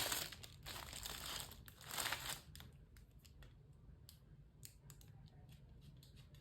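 Crinkling and rustling, like something being crumpled or handled, for the first two and a half seconds, then a few light clicks and taps.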